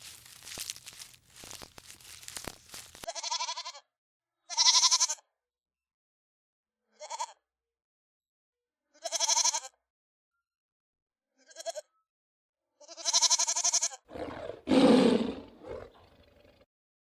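Crackling and rustling for the first three seconds, then a farm animal bleating six times, short wavering calls with pauses of a second or two between them. A lower, rougher call follows near the end.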